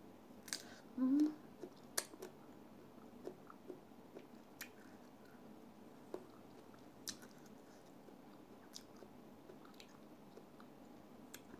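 A person biting and chewing ripe mango slices, with soft wet mouth clicks and smacks scattered throughout.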